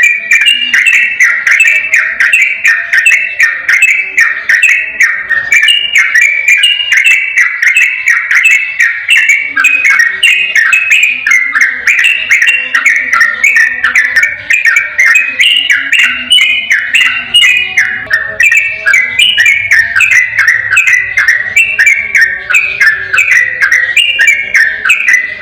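Yellow-vented bulbul (trucukan) singing a long 'ropel' song: a fast, unbroken chatter of warbled notes with no pauses.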